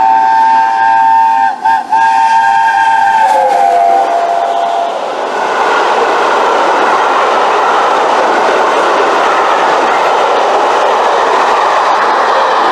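Steam locomotive whistle blowing a loud chord, broken twice for an instant and sliding down in pitch as it stops about five seconds in. Then the steady rushing noise of the train passing close by.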